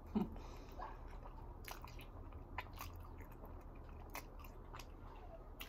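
A person chewing food close to the microphone: soft, irregular mouth clicks and small crunches.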